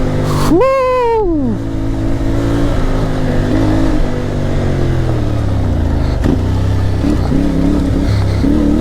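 CFMoto 450MT's parallel-twin engine running while the motorcycle is ridden, the throttle varying. A short sharp rise and fall in pitch comes about half a second in.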